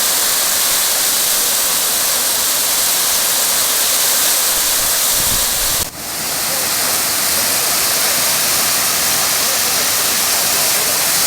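Waterfall on the Rufabgo stream: a loud, steady rush of falling water, dipping briefly about six seconds in.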